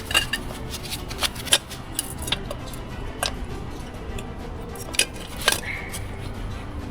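Scattered light clicks and metallic clinks of hand tools being handled, a screwdriver among them. The two sharpest come about five seconds in.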